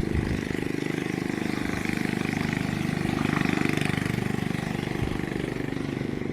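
STIHL MS720 two-stroke chainsaw engine running at speed, steady, swelling slightly louder through the middle; a sharp knock sounds right at the start.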